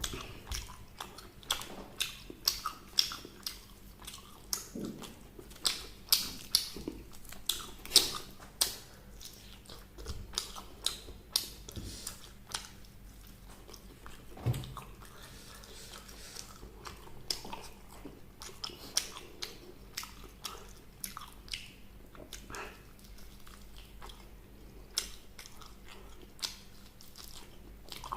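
A person biting and chewing crispy fried chicken, with many sharp crunches in the first half that give way to softer, sparser chewing.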